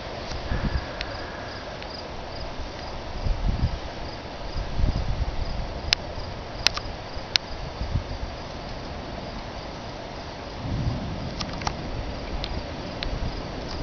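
Crickets chirping in a fast, even pulse, with short low rumbles coming and going and three sharp clicks near the middle.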